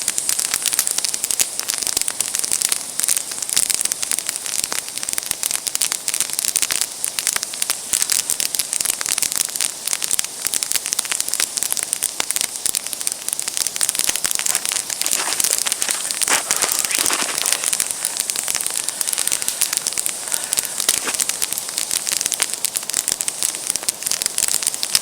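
Wood campfire burning and crackling, a steady run of small pops and snaps, with a few louder cracks about two-thirds of the way through.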